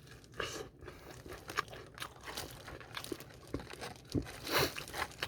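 Close-up eating of BHC Puringkle fried chicken: crackly crunching and tearing of the crispy seasoned coating, in scattered small crackles with a louder crunch about four and a half seconds in.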